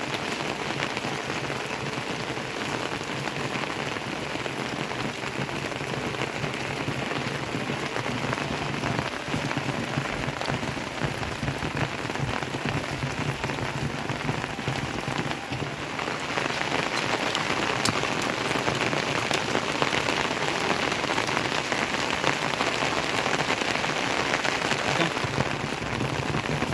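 Steady rain falling, growing heavier about two-thirds of the way through.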